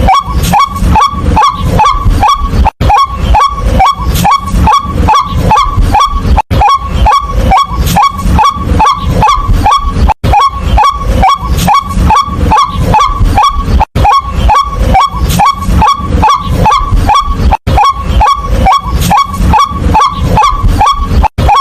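White-breasted waterhen calling: a loud, fast run of repeated croaking notes, about three a second, broken by a brief gap roughly every four seconds.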